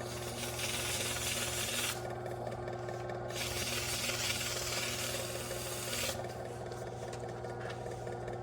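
Box fan's electric motor humming steadily while something rubs against the fan in two long stretches of rasping noise, each lasting a couple of seconds.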